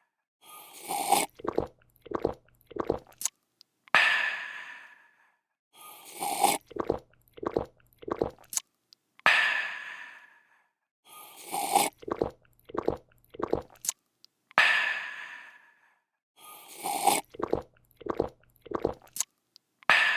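A person drinking, looped: a slurp and a quick run of gulps, then a breathy, refreshed 'aah'. The cycle repeats about every five seconds, close to four times over.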